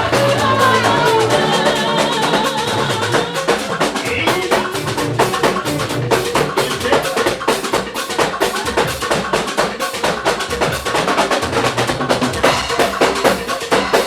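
Live gospel praise band playing an instrumental passage without singing: a drum kit keeps a busy, driving beat over bass and other pitched instruments.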